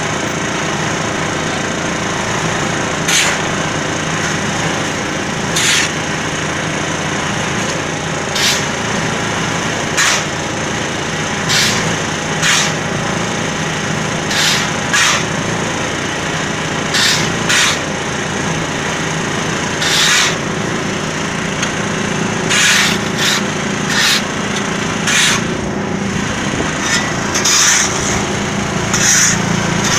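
Diesel engine of a concrete mixer running steadily, with short harsh scraping rasps every second or two that come more often near the end.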